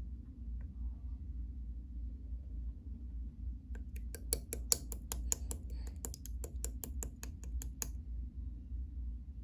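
Clear slime being pressed and worked by hand, giving a rapid run of sharp crisp clicks and pops, about five a second, for some four seconds starting a little before the middle, over a steady low hum.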